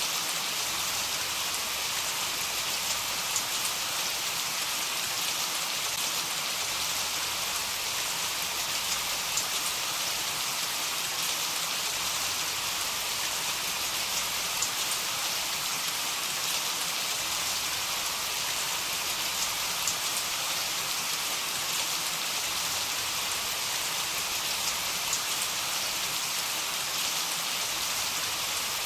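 Steady heavy rain: an even hiss of falling rain with scattered sharp drop ticks, no thunder.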